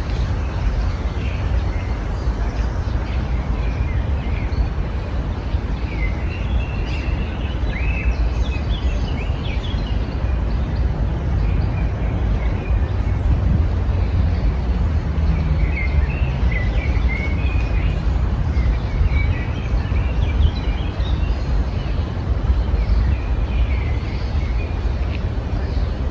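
Songbirds chirping and twittering in scattered bursts over a steady low rumble.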